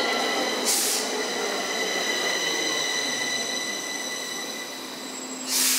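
Metro train at the station: a steady high-pitched whine of several tones together, slowly fading. A short hiss comes about a second in, and a louder hiss near the end.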